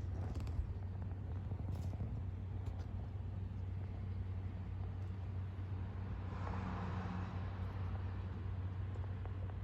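A steady low hum, with a few faint clicks near the start and a brief swell of hissing noise about six and a half seconds in.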